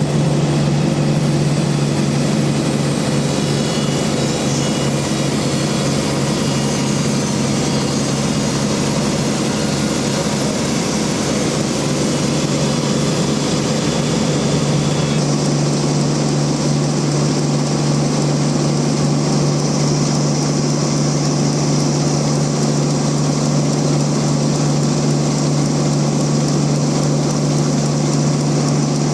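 Band sawmill running steadily with a strong, constant hum as it saws a large rain tree (trembesi) log. The higher part of its sound shifts about halfway through.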